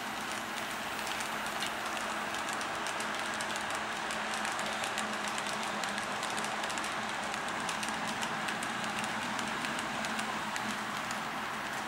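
HO scale model train running along the track: a steady rolling noise with a faint hum and light, irregular clicking throughout.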